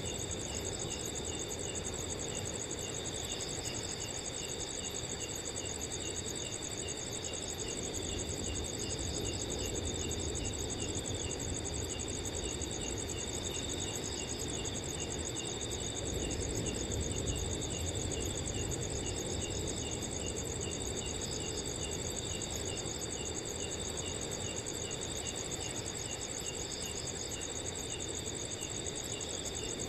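Crickets chirping in a steady chorus: one high continuous trill with a faster, regular pulsing chirp beneath it, over a low rushing of wind.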